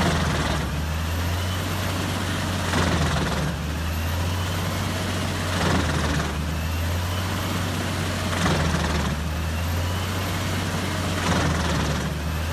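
Large forestry wood chipper's diesel engine running steadily under load, with a louder rush of noise about every two and a half to three seconds as material goes through.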